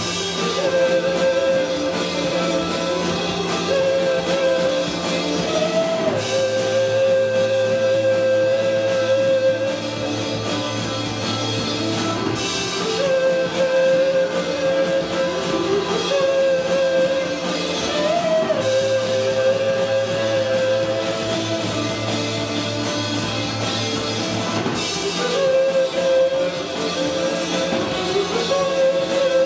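Live rock band playing with electric guitar, bass and drum kit, sustained guitar notes bending around the melody, bass changing roughly every six seconds, in a large room.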